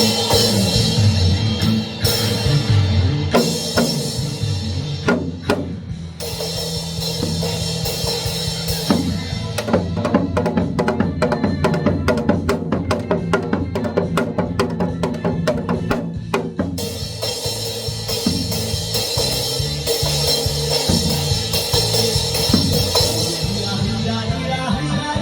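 Janggu, the Korean hourglass drum, played in free-style fast strokes along with a recorded trot backing track during the song's instrumental intro. A dense run of rapid strokes comes in the middle.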